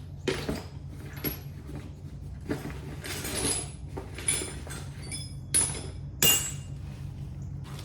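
Metal hand tools and sockets clinking and clanking while being rummaged through, about seven sharp metallic knocks with ringing, the loudest two near the end, over a steady low hum.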